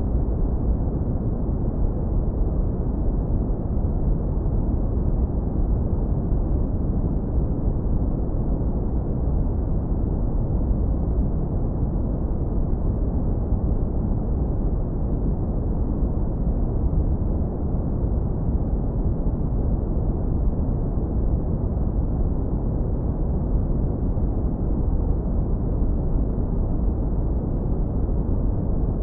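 Steady, deep brown noise, heavily low-pass filtered so it is all low rumble with the highs cut away.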